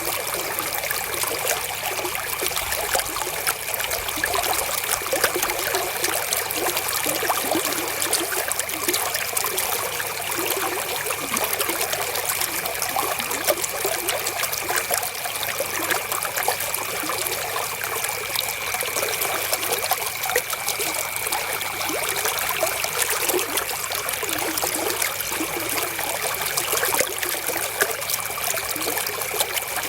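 River water flowing and trickling steadily over stones, an even, unbroken rush.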